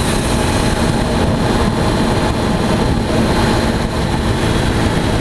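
Heavily modified 2003 Mercedes-Benz CL600's twin-turbo V12 running steadily under way, a loud, even rush of engine and exhaust noise with a low steady drone and no sharp revs or blow-off bursts.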